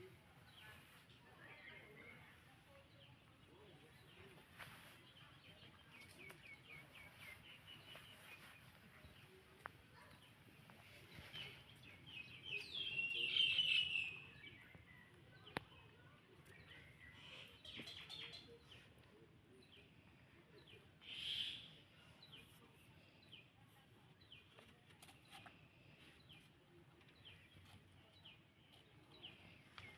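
Birds chirping and trilling in quick high runs, faint, with a louder burst of chirping for about two seconds near the middle.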